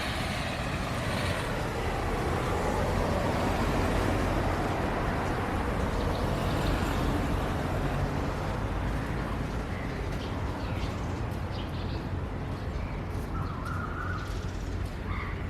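Traffic on a wet road: a vehicle's tyre hiss swells to a peak about four seconds in and then fades, over a steady low rumble. A few short bird calls come near the end.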